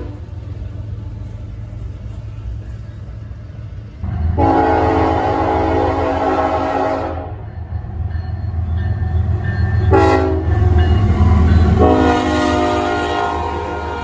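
Diesel locomotive horn sounding over the rumble of the departing train: a long blast, a short one and another long one, the end of the long-long-short-long grade-crossing signal.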